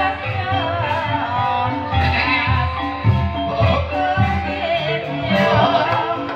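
Live dangdut-style music for an ebeg hobby-horse dance: a singer's wavering melody over a steady low drum beat.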